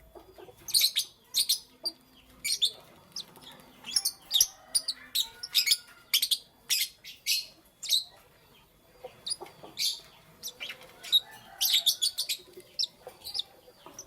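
Lovebirds chirping: many short, shrill chirps in quick, irregular clusters, with a brief lull a little past the middle.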